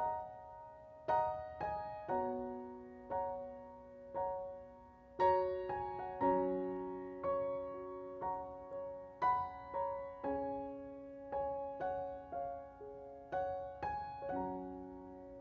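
Slow, gentle piano background music: single notes and chords struck about once or twice a second, each left to ring out.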